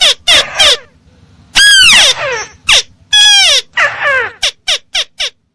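Loud, repeated calls of a tikusan crake played as a bird-trapping lure call. The calls are quick series of short notes that rise and then fall in pitch, broken by a pause about a second in and by longer drawn-out notes near two and three seconds.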